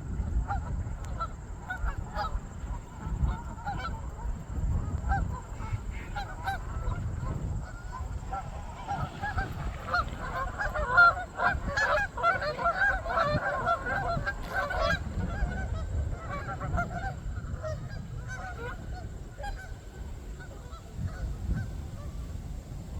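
A flock of Canada geese honking, many birds calling over one another. The honking is densest and loudest about ten to fifteen seconds in, over a low rumble.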